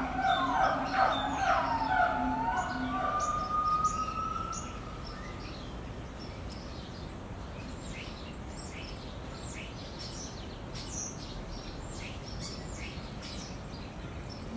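Small birds chirping, short high calls scattered throughout. For about the first four seconds a louder sound of sliding, wavering tones over a pulsing low hum lies over them, then stops.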